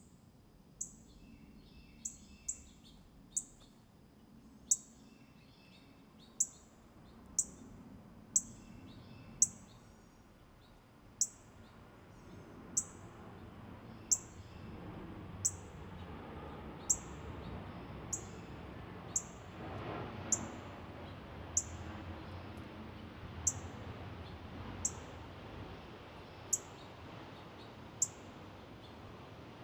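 A songbird repeating short, sharp, very high chip calls, each a quick downward slur, about one a second, some twenty in all. Softer, lower chirps are mixed in during the first third. A low background rumble rises and fades in the middle.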